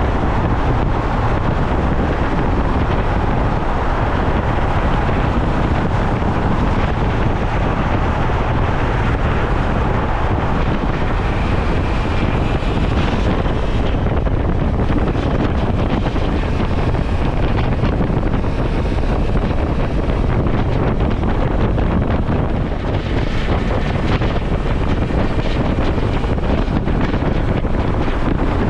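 Steady wind rush on the microphone of a Suzuki V-Strom motorcycle riding at speed, with engine and road noise underneath.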